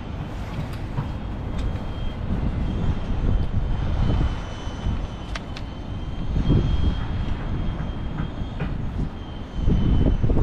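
Gusty wind buffeting the microphone: a low, uneven rumble that swells and fades with the gusts, with a few faint clicks of rope gear being handled.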